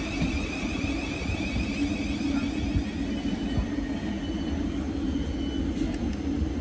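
Thameslink Class 700 electric multiple unit running slowly along the platform as it comes to a stop: a steady low rumble of wheels and running gear, with a high electric whine that fades out about halfway through.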